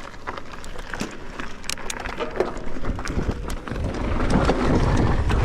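E-mountain bike riding down a dirt trail: tyres rumbling over the ground with scattered clicks and rattles from the bike, and wind on the microphone growing louder about four seconds in as it picks up speed.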